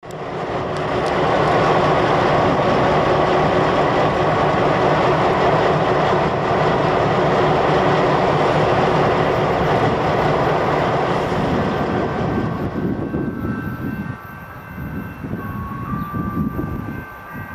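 Loud, steady running noise of a railway train. About twelve seconds in it drops to a weaker, gusty rumble of wind on the microphone, with a distant train approaching.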